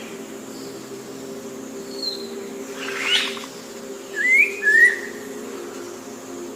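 A bird calling: a few short whistled notes, the loudest being two quick rising whistles a little past four seconds in, over a steady low hum.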